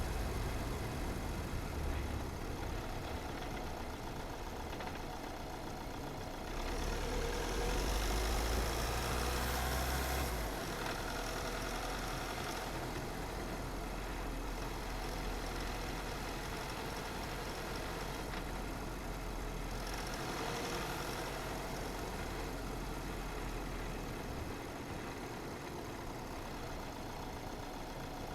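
Car driving: steady engine and road noise with a low rumble, swelling louder for about four seconds a quarter of the way in.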